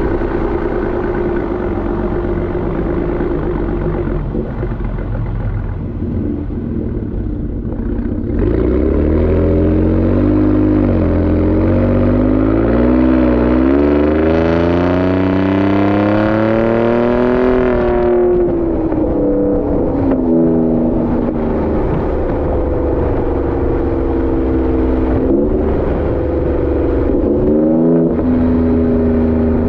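Gen 2 Ford Raptor's twin-turbo V6 through a Borla ATAK exhaust while driving, heard from behind the truck. It runs steadily, then about eight seconds in accelerates hard, its pitch climbing through several gear changes for about nine seconds. Then the throttle lifts and it settles back to steady cruising, with a couple of brief dips near the end.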